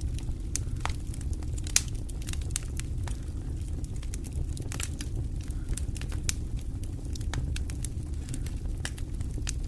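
Wood fire in a fireplace crackling: irregular sharp pops and snaps over a steady low rumble of the burning logs, with one louder snap a little under two seconds in.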